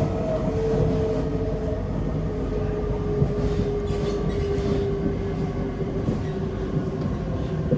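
Inside a Kawasaki-CRRC Sifang C151A metro train running between stations: steady rumble of wheels on the track, with a motor whine that slowly drops in pitch.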